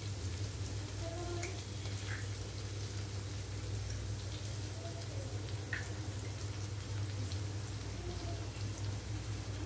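Egg and diced capsicum frying in oil in a non-stick pan, a soft steady sizzle with faint crackles, over a steady low hum.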